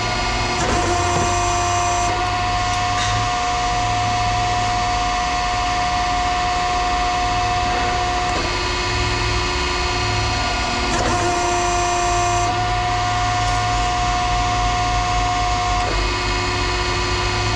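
A motor-driven power tool or machine running steadily with a constant whine, the pitch dropping out briefly a few times, about halfway through and near the end.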